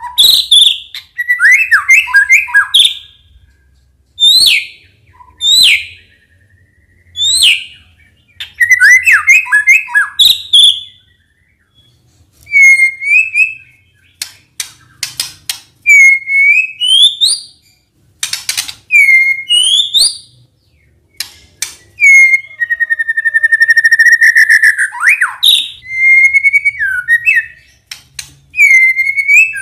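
White-rumped shama singing loud, varied whistled phrases: rapid repeated notes, upward-sweeping whistles and a long trill, with short pauses between phrases.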